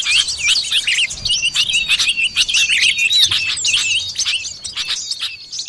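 Bird-lure recording of the common iora (cipoh) calling: a dense run of rapid, high, overlapping chirps and quick whistled sweeps that thins out and softens toward the end.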